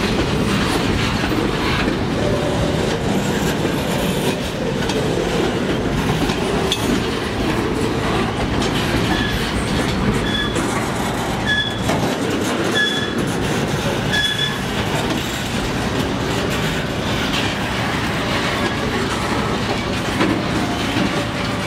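Freight cars rolling past on the rails, centerbeam lumber flatcars and then tank cars. Around the middle, a short high squeal from the train repeats five times, about every second and a quarter.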